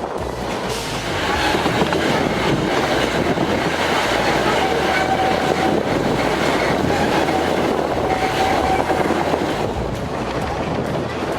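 Narrow-gauge park railway train running, heard from aboard: a steady rumble and clatter of wheels on the track. A thin high wheel squeal comes in twice, once midway and again near the end.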